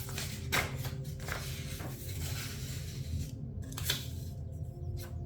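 Scissors cutting through a sheet of paper: a continuous papery hiss lasting about three seconds, with a few sharp clicks.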